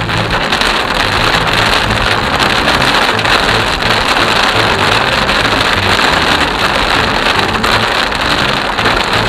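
Heavy monsoon rain on a moving car, heard from inside: a steady dense hiss of rain on the roof and windshield, with spray from the wet road.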